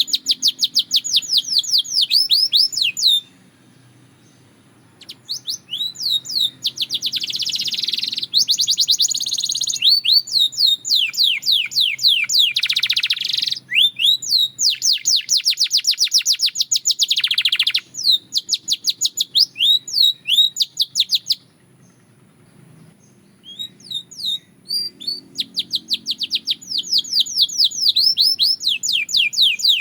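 A canary singing long, fast trills of rapidly repeated falling notes, with buzzier rolling phrases between them. The song breaks off briefly about three seconds in and again a little past twenty seconds, then starts up again.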